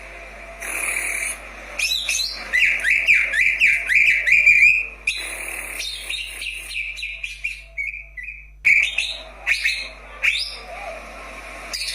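Cucak ijo (greater green leafbird) singing: a fast run of short, sliding whistled notes, loudest in the first half, then a softer, more broken stretch of notes.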